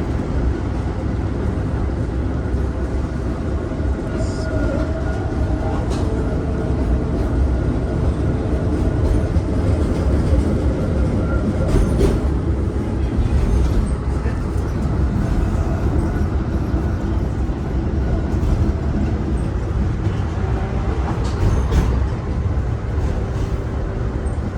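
Tram running on its rails: a steady low rumble with a faint held whine and a few sharp clicks.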